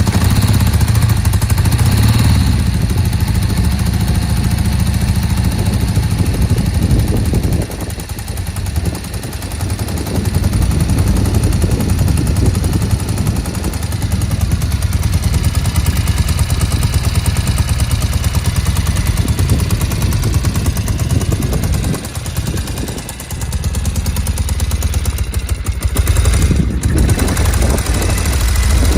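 A 1975 Norton Commando's air-cooled parallel-twin engine running just after starting, with a deep, even beat at idle. The sound drops briefly about eight seconds in and again about twenty-two seconds in, then picks back up.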